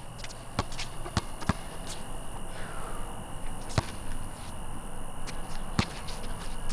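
Basketball bouncing on an outdoor court: a handful of sharp, irregularly spaced thuds, three in the first second and a half and two louder ones later.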